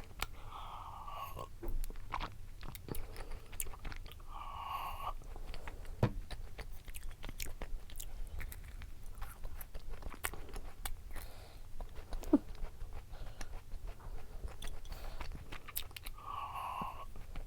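Close-miked eating sounds: a person chewing and biting food, with many small mouth clicks and a few brief louder mouth noises.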